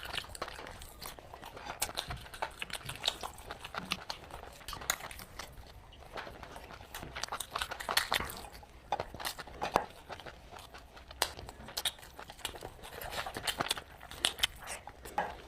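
A person chewing and biting food close to the microphone, with many irregular sharp crunches.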